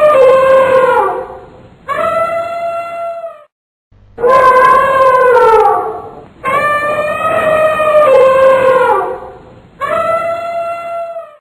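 Elephant trumpeting: a string of about five loud, brassy calls, each lasting one to two and a half seconds with short breaks between, several sliding down in pitch as they end.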